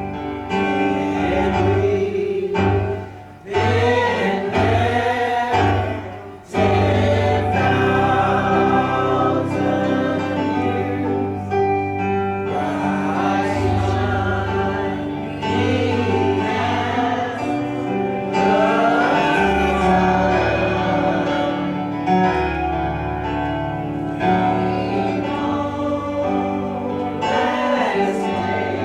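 Gospel choir singing with instrumental accompaniment, sustained chords with voices rising and falling in pitch, briefly dropping off twice in the first few seconds.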